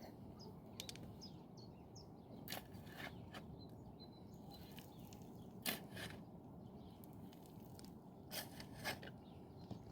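Faint, scattered short knocks and clicks, about six of them in three pairs, over a low steady background hiss.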